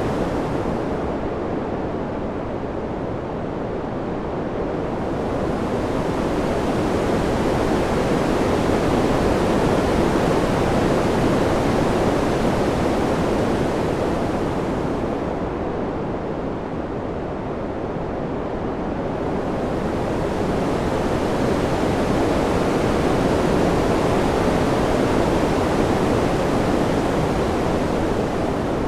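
Ambient wind sound: an even rushing noise that swells and eases slowly, softening and losing its hiss a second or so in and again about halfway through.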